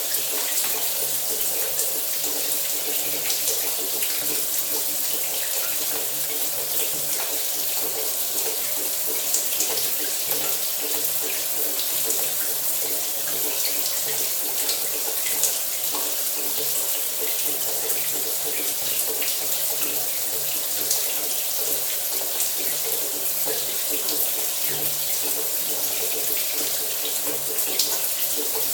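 Shower running steadily, water spraying and splashing with a constant hiss and small spatters of droplets.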